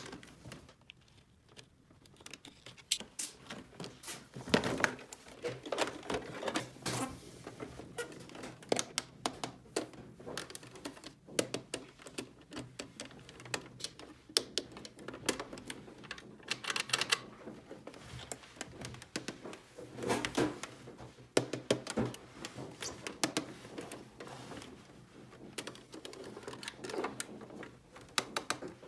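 Irregular clicks and taps of small hard plastic toy pieces being handled and set down, in quick clusters with short pauses between.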